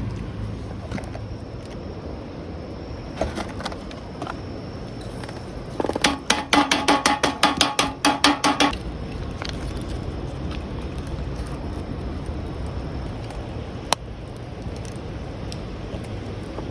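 A quick run of ringing metallic clinks, about seven a second for roughly three seconds, like a utensil beating against a metal bowl or pot. A single sharp click comes later.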